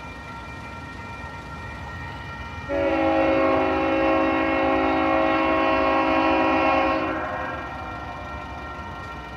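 Diesel locomotive air horn on a ballast train sounding one long multi-note chord of about four seconds for the road crossing, over the steady rumble of the passing train.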